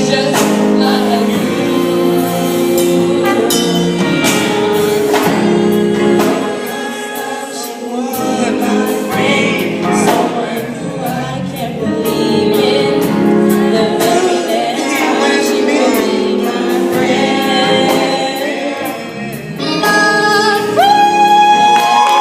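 Mixed-voice vocal group singing close harmony, holding sustained chords phrase by phrase. Near the end a single high voice slides up and holds a long note.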